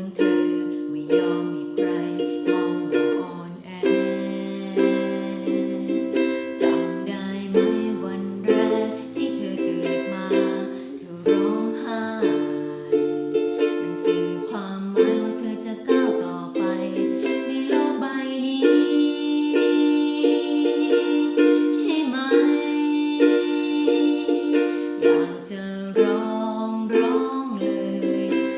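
Ukulele playing the song on its own, plucked and strummed chords with a melody line in a steady rhythm.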